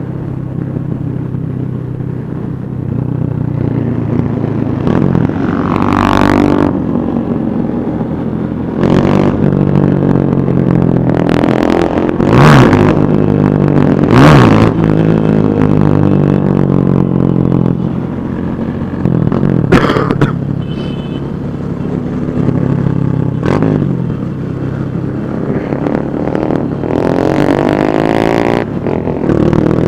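Many motorcycle engines running together, with bikes revving and passing close by one after another, each pass swelling and fading.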